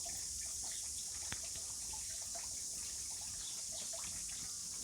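Rain falling steadily as an even hiss, with scattered small ticks and pops and one sharper click about a second in.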